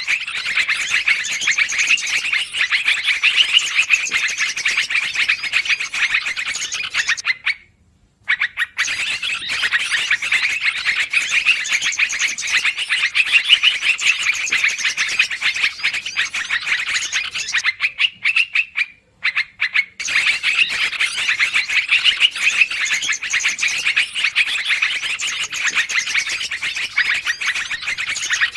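Yellow-vented bulbul (trucukan) calls in a trapping-lure recording: dense, rapid, noisy chattering, broken by two short pauses about 8 and 19 seconds in.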